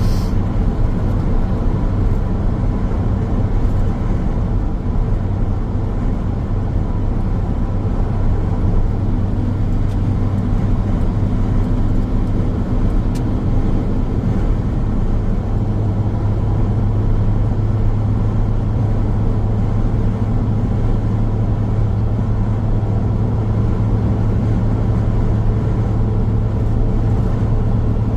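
Car driving along a highway: steady road and tyre noise under a low, even drone, with no change in speed.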